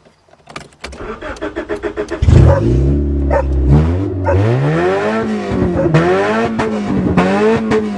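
An automatic Honda's engine being started: it cranks with fast ticks for under two seconds, catches with a loud burst a little over two seconds in, then is revved up and down about four times.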